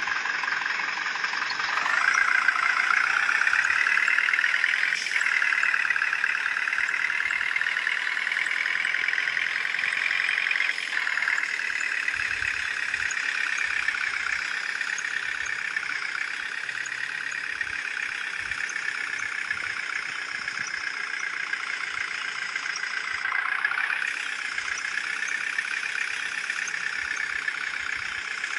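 Truck engine running steadily, its pitch stepping up about two seconds in, climbing slowly and dropping back a couple of times, then rising briefly near the end.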